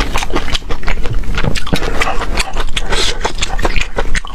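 Close-miked eating sounds: a person chewing and slurping food, a dense run of quick wet clicks and smacks.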